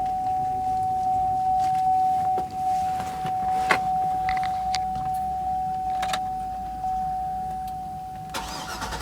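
Warning chime of a 2006 GMC Yukon Denali, one steady tone repeating about once a second. A few clicks and knocks sound over it, and the chime breaks off near the end.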